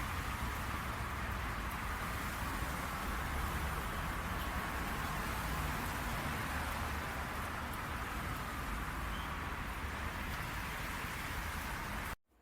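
Steady truck driving noise: a low rumble under an even hiss, which cuts off abruptly near the end.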